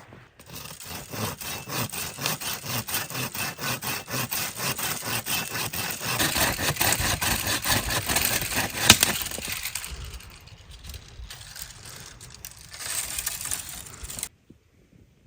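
Rhythmic back-and-forth scraping strokes, about three a second, like hand sawing, with one sharp knock about nine seconds in; the strokes weaken after about ten seconds and cut off suddenly near the end.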